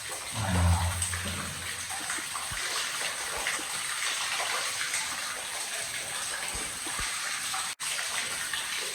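Steady splashing hiss of water falling and running inside a cave, from an underground waterfall. A short low vocal grunt comes about half a second in, and the sound cuts out for an instant near the end.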